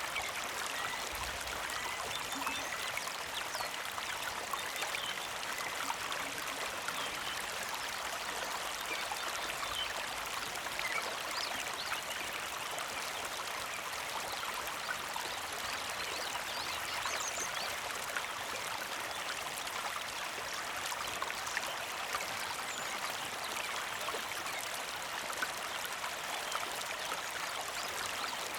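Creek water flowing and trickling steadily, an even rushing sound that does not change.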